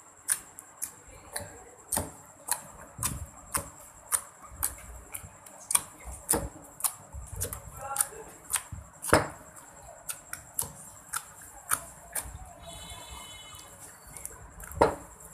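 Slime being squeezed and poked by hand, giving irregular sharp clicks and pops, about two a second.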